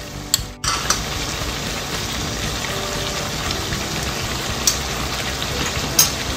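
Pork pieces and onions sizzling steadily in a frying pan with oyster sauce just added, with a couple of light clicks from a utensil.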